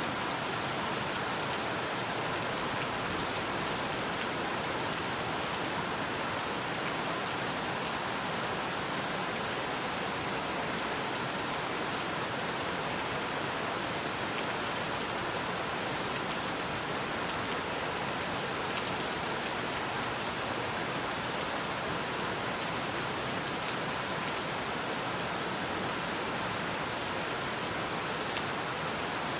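Steady rain falling: an even, unchanging hiss with scattered drop ticks.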